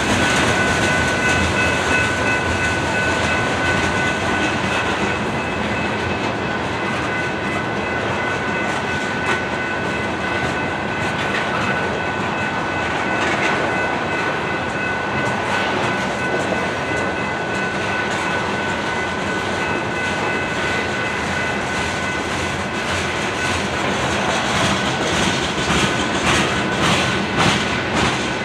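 Coal cars of a freight train rolling past: a steady rumble of steel wheels on rail with a thin, steady high whine through it, and sharper clicks of wheels over rail joints near the end.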